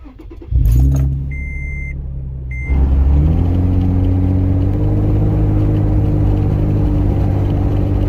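A car engine starts about half a second in and runs, while a dashboard warning chime sounds twice. Just under three seconds in the engine grows louder and rises in pitch, then holds steady.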